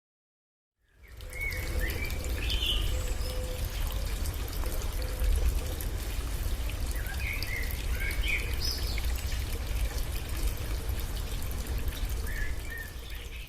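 Running water, a stream trickling and pouring steadily with a deep rumble underneath, fading in after about a second of silence. Birds give short chirping calls in three bouts: early on, again around seven to nine seconds in, and near the end.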